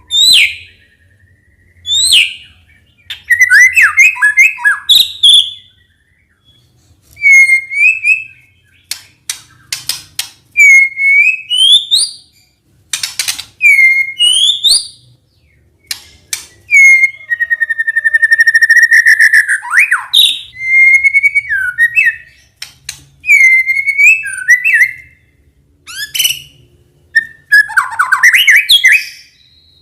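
White-rumped shama singing loudly: varied phrases of sharp whistled notes, many hooked upward, mixed with quick clicking notes, and a longer rattling phrase a little past the middle, with short pauses between phrases.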